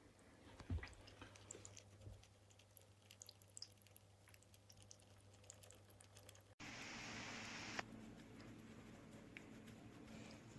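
Near silence with faint scattered small ticks and clicks. About six and a half seconds in the sound cuts abruptly to a brief hiss lasting about a second, then a faint steady low hum.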